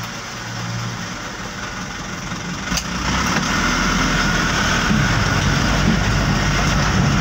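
Dump truck engine running, getting louder about three seconds in, with a single sharp click just before the rise.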